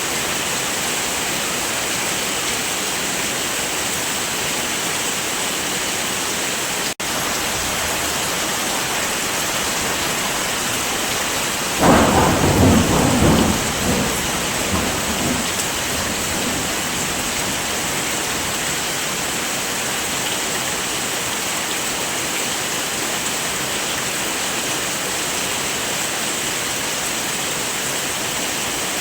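Steady heavy rain. About twelve seconds in, a sudden clap of thunder rumbles and fades over three or four seconds; earlier, around seven seconds in, the rain cuts out for an instant.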